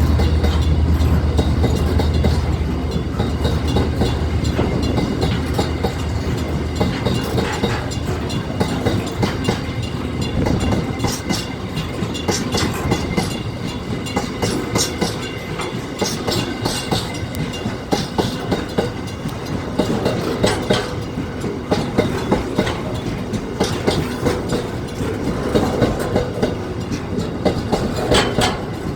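Container train passing close by: a deep diesel rumble fades away in the first few seconds, then the wagons roll past with a steady clickety-clack of wheels over the rail joints.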